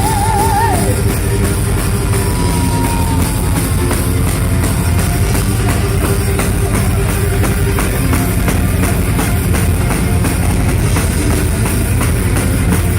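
Heavy metal band playing, with drums and distorted guitars. A wavering held note sounds right at the start.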